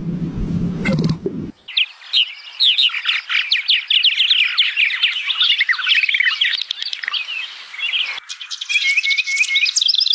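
A low, rough sound cuts off about a second and a half in, giving way to birds chirping: many quick overlapping calls. Near the end a different bird takes over with a run of repeated short notes.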